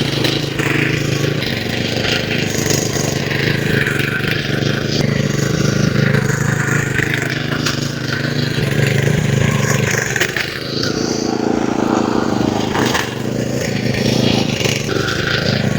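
A small engine running steadily with a low drone, with scraping and rattling as the machine works.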